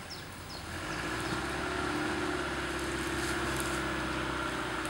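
Jeep Grand Cherokee WJ's engine working under load as it crawls through deep mud ruts. About a second in it grows louder and then holds as a steady drone.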